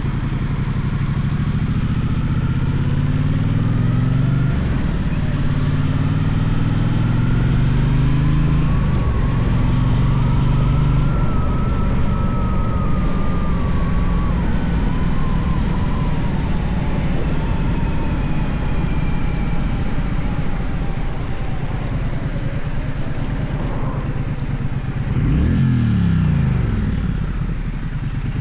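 Gaokin GK1200 motorcycle engine pulling away through the gears, the revs climbing and dropping back at each of several upshifts over the first nine seconds. It then runs steadily at cruising speed under wind and road noise. Near the end the revs fall and climb again quickly.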